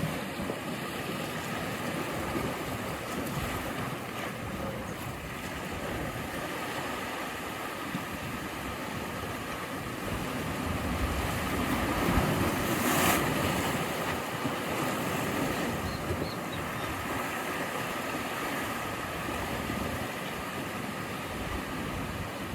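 Sea waves on the shore, a steady rush of surf, with one wave building and breaking louder about thirteen seconds in.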